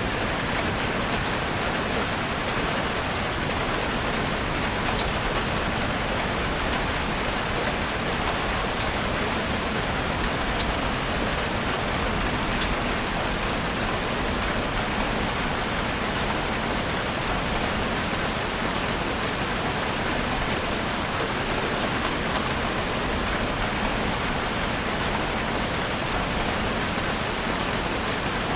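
Heavy rain falling steadily on a roof: a dense, even hiss with countless small drop impacts, unchanging throughout.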